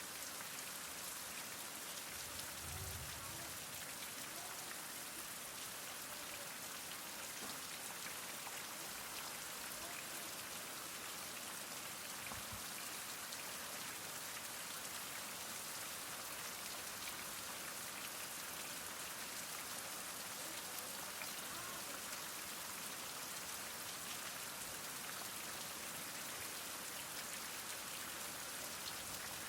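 Heavy rain falling steadily, a dense even hiss of drops with fine individual patters, and a few faint low thuds.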